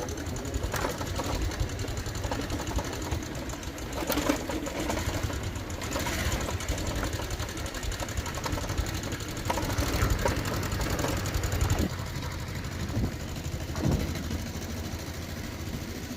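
Motorcycle engine running steadily under way, with a few short knocks scattered through it.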